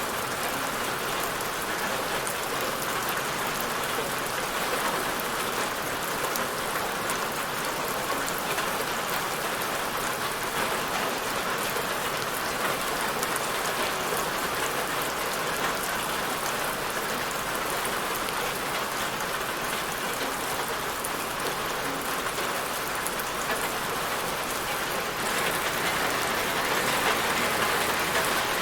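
Steady rain falling on a surface, a constant hiss with patter of individual drops, growing slightly louder near the end.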